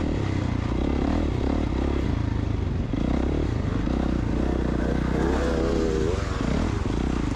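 KTM two-stroke dirt bike engine running, its pitch wavering up and down about five seconds in.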